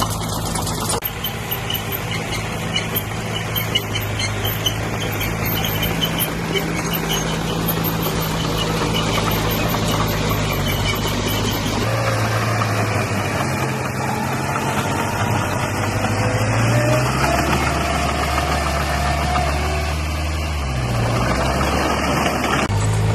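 Diesel engine of heavy earthmoving machinery running at work. Its engine note shifts to a different pitch about halfway through and changes again a few times near the end, over a dense mechanical noise.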